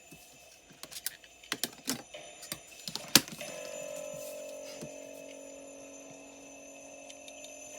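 Bells jingling in a quick cluster of sharp strikes, the loudest about three seconds in, followed by a steady ringing tone that slowly fades.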